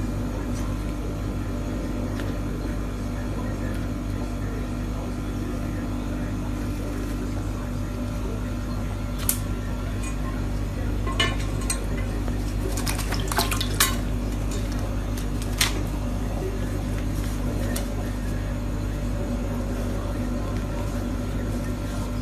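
A steady low hum with a scattered series of sharp clinks and taps, like small hard objects knocking together, starting about nine seconds in and coming in a quick cluster around thirteen to fourteen seconds.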